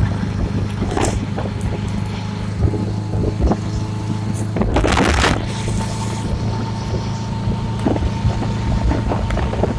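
Motorcycle engine running at a steady speed, with wind buffeting the microphone in gusts, the strongest about halfway through.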